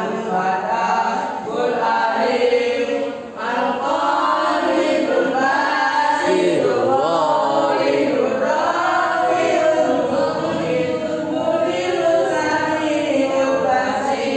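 A group of voices singing or chanting together, with a brief dip about three seconds in.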